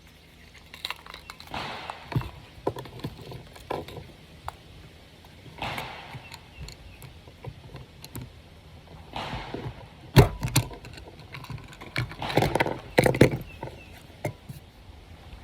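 9mm cartridges being clicked into a Glock pistol magazine with an UpLULA magazine loader: scattered clicks and short rattles of metal and plastic. A louder sharp knock comes about ten seconds in, followed by a quick run of clacks.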